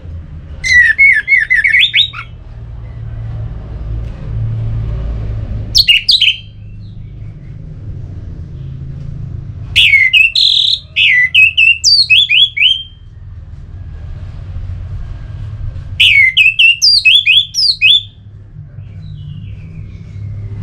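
Orange-headed thrush singing in short bursts of quick, sharp whistled notes, four phrases with pauses between them. A steady low hum runs underneath.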